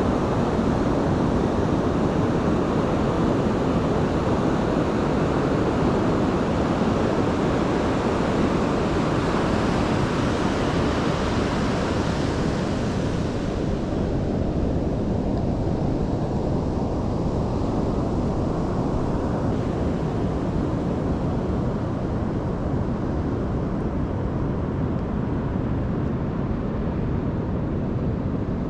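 Steady wash of ocean surf mixed with wind noise on the microphone; the higher hiss thins out about halfway through.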